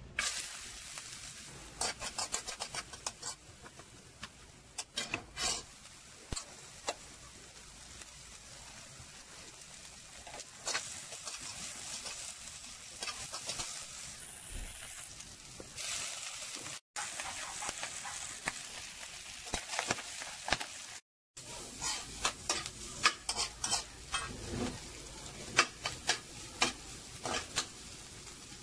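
Chopped onion and green chili, and later the chopped pork for sisig, sizzling in a stainless steel wok. A metal utensil scrapes and clicks against the pan in quick runs as the food is stirred.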